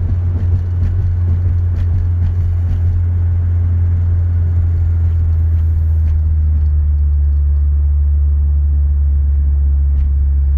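Inside the cabin of a 2006 Honda Civic Si under way, its K20Z3 four-cylinder engine and the road noise making a steady low drone as the car slows from about 36 to 28 mph. The sound is rougher for the first six seconds or so, then evens out.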